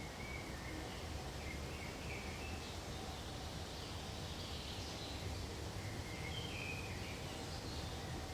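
Forest ambience: a steady low background rumble with faint, scattered bird chirps several times.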